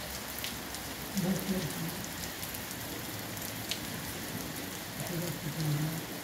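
Steady rain falling, with an occasional sharp drop tap close by.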